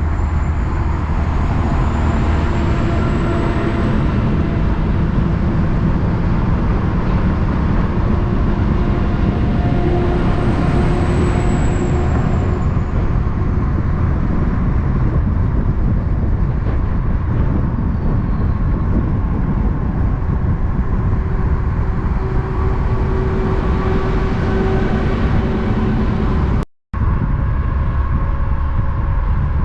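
Heavy road traffic with trucks passing: a steady mix of engine and tyre noise. It drops out briefly near the end.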